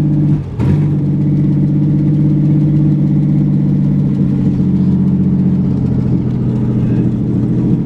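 Pickup truck engine running with no exhaust system, straight off the headers, a loud, steady, noisy rumble. About half a second in the sound dips briefly, and a sharp knock follows.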